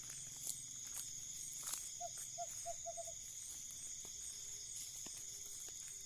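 An owl hooting: a quick run of about six short hoots, speeding up slightly, about two seconds in. Behind it a steady high-pitched insect chorus, with scattered sharp clicks.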